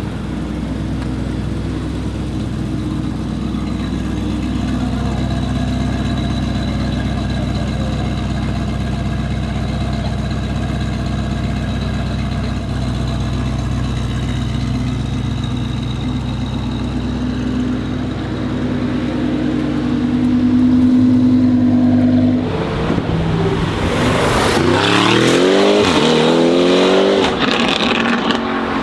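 Mansory Venatus Lamborghini Urus's twin-turbo V8 running steadily at low revs for about twenty seconds, then accelerating hard, its engine note rising sharply and loudly near the end.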